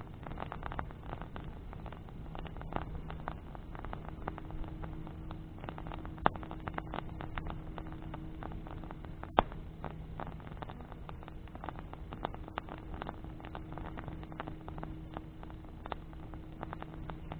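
Bonfire of burning branches crackling, with frequent small snaps and two sharper pops about six and nine seconds in. A faint steady low hum runs underneath.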